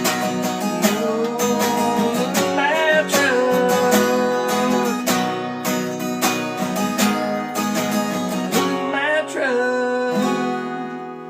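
Acoustic guitar strummed in a steady rhythm. It ends on a last chord, about ten seconds in, that rings on and fades away.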